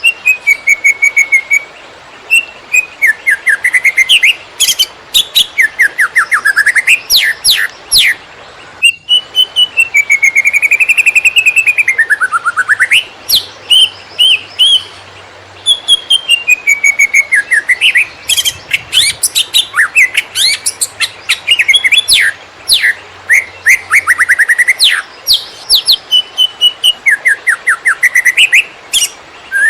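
Cucak ijo (green leafbird) singing a fast, varied song of rapid note trains and whistled pitch glides with only brief pauses, the rapid nonstop "konslet" style.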